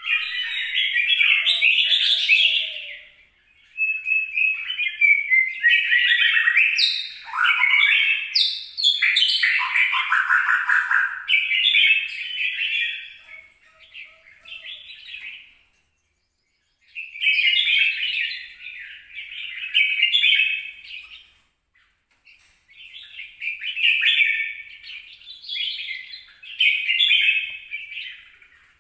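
A crested bulbul singing: bursts of quick, warbling phrases a few seconds long, with brief pauses between them.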